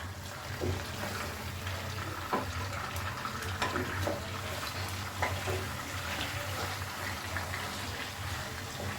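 Marinated chicken thighs frying in oil in a kadai over a low flame: a steady sizzle with scattered light clicks and pops, over a low steady hum.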